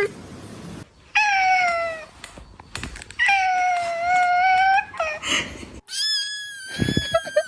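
Cat meowing in long, drawn-out, slightly falling calls, two of them, then a short one, and near the end a higher-pitched drawn-out cry.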